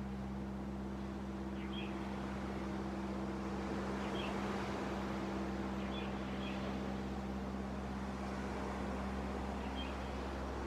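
Sea waves washing on a beach, heard as a steady rush, with a steady low hum like a distant engine underneath and a few short bird chirps.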